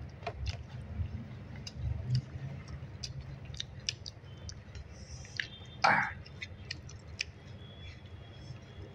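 Mouth sounds of a person eating: chewing with many scattered small, sharp clicks. There is a brief, louder sound about six seconds in.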